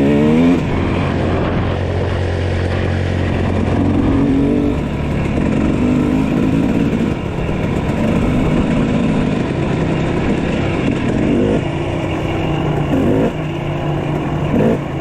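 Dirt bike engine running on a trail ride, revving up and easing off with the throttle several times over a steady drone.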